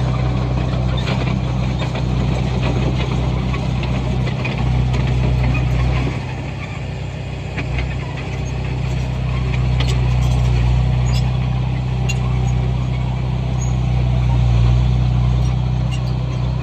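Komatsu bulldozer's diesel engine running steadily, easing off for a couple of seconds about six seconds in before coming back up. A few sharp metallic clanks come around ten seconds in.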